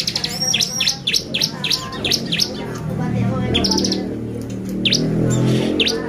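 Bar-winged prinia (ciblek) singing hard: a quick run of sharp, falling chirps, several a second, broken by short buzzy trills at the start and again a little past halfway. A low rumble rises under it in the second half.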